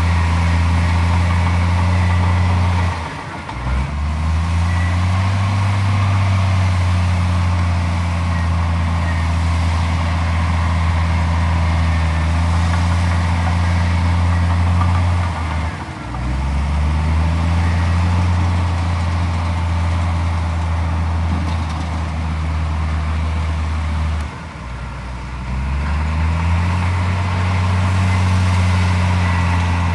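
Komatsu D41P bulldozer's diesel engine running hard and steady, its note dropping three times (a few seconds in, about halfway, and past three quarters) and climbing back over a second or two each time as the revs fall and pick up again.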